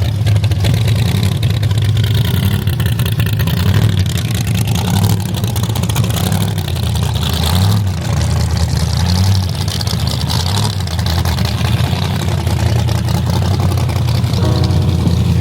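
Car engine running loudly, revving at times.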